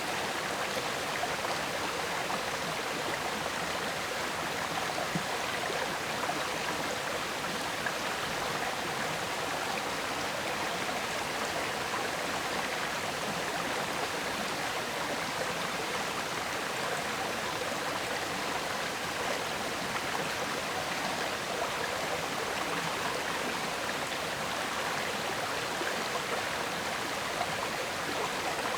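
River water flowing and gurgling over rocks, a steady, even rush.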